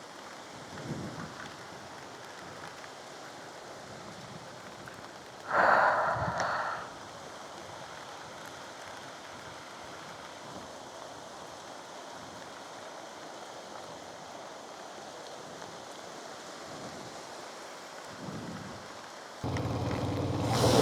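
Steady rain falling, with one louder noise lasting about a second some six seconds in. A different, louder sound with a steady pitch starts near the end.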